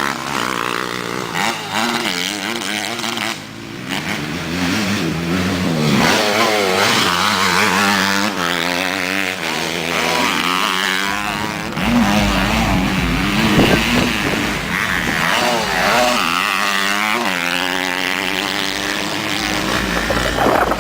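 Several motocross motorcycle engines revving, their pitch rising and falling again and again as the riders open and close the throttle. A low rumble joins about halfway through.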